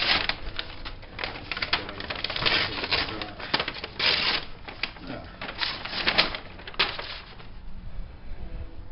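Masking with painter's tape and a plastic bag: irregular clicks and rustles, with short tearing bursts as tape is pulled off the roll, busiest in the first part and thinning out near the end.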